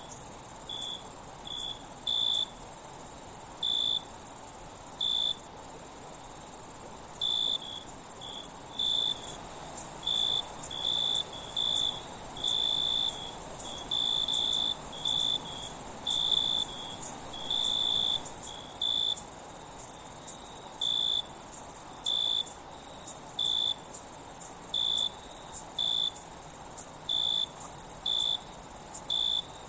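Night insect chorus: a steady, very high-pitched shrill trill, with a cricket chirping lower down in short repeated chirps about one or two a second, coming more thickly in the middle.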